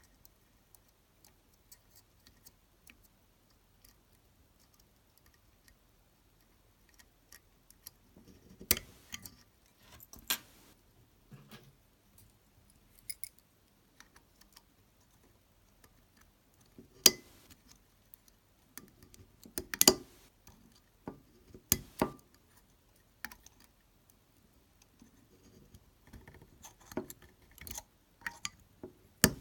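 Irregular light clicks, scrapes and small metallic taps of tools and small parts being handled. It is nearly quiet at first; after about eight seconds come a handful of sharper knocks, with a cluster of quicker clicks near the end.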